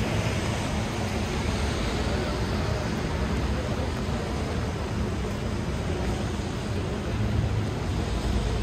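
Steady hiss of falling rain mixed with the low rumble of city traffic.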